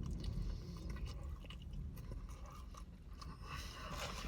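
A person chewing food close to the microphone, with small crunches and wet mouth clicks.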